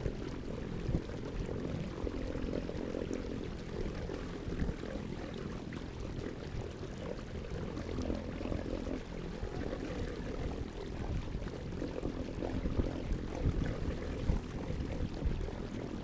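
Water sloshing and splashing around a kayak, a muffled low wash with irregular small splashes.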